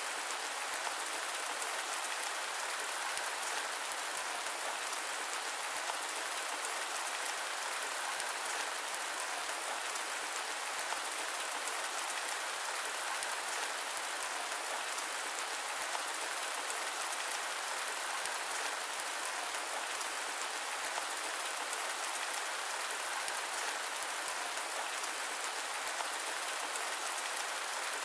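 Steady rain falling on a surface, an even hiss with no distinct drops, thunder or breaks.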